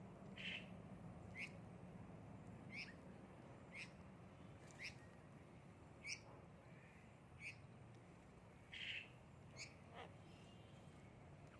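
Birds giving short, high chirps, repeated about once a second, with two longer, harsher calls about half a second in and about nine seconds in; faint.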